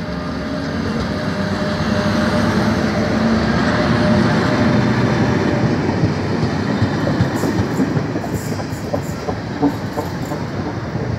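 Class 73 electro-diesel locomotive and Network Rail test-train coaches passing close by at speed, a steady loud running noise that builds over the first few seconds. In the second half the wheels click over the rail joints.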